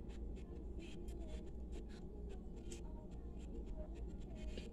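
Close-up eating sounds: irregular wet mouth clicks and smacks from chewing soft bulla cake and avocado, over a low steady hum.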